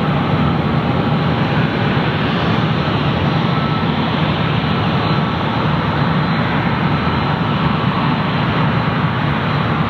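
Jet airliner engines making a steady rushing noise that holds an even level throughout.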